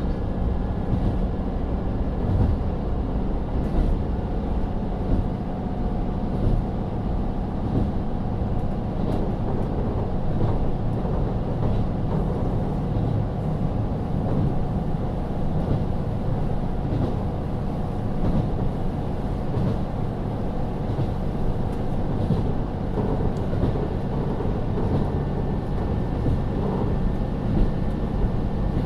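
Onboard running sound of a JR KiHa 40 diesel railcar, heard inside the car: its N-DMF13HZB diesel engine runs at a steady note under a constant rumble of wheels on rail, with faint scattered ticks.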